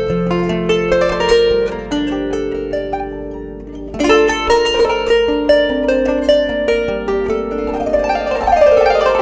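Kanun, the Turkish plucked zither, playing a melody of ringing plucked notes. The playing thins and softens about three seconds in, then comes back fuller, with a rapid run of notes near the end.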